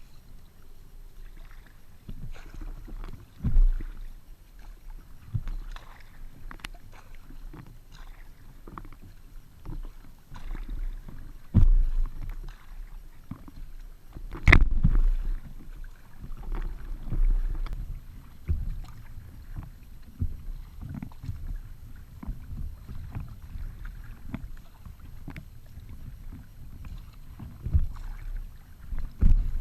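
Feathercraft Wisper folding sea kayak being paddled: irregular splashes and drips of the paddle blades in the water over a low rumble, with a few louder knocks.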